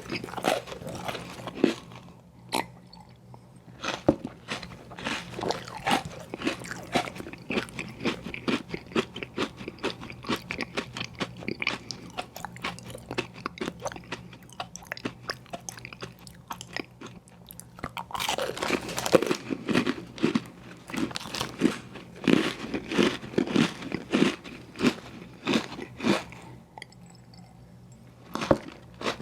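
Close-miked eating of an ice cream sandwich: a steady run of crunchy bites and chewing, growing louder and denser for several seconds in the last third.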